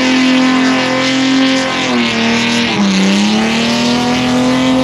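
Car engine held at high revs on a burnout pad, a steady high engine note that dips twice, around two and three seconds in, and climbs back, with a dense hiss over it.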